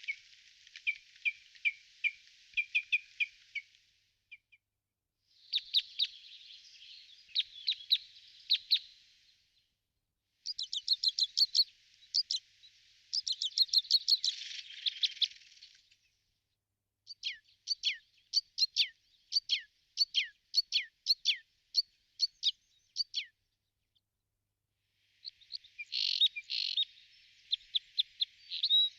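Birds chirping in rapid, high-pitched series of several chirps a second, coming in phrases a few seconds long separated by brief silences.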